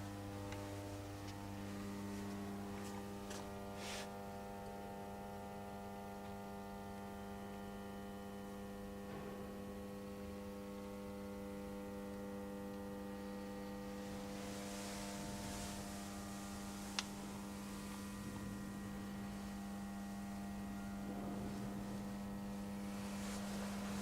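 Steady electrical mains hum, a low drone with a stack of evenly spaced overtones, typical of powered-up machinery standing idle. A single sharp click comes about two-thirds of the way through.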